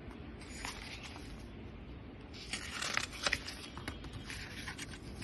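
Paper rustling and scraping as a picture book's page is handled and turned, in a few short bursts, loudest about three seconds in.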